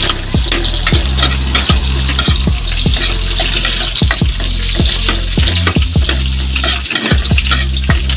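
Garlic and onion sizzling in hot oil in an aluminium pot while a metal spoon stirs them, clicking and scraping against the pot about twice a second.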